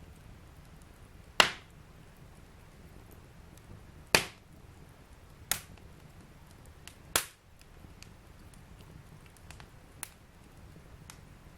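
Fire burning in a fireplace, crackling: about five sharp pops over a low steady hiss, the two loudest in the first half, with fainter ticks in between.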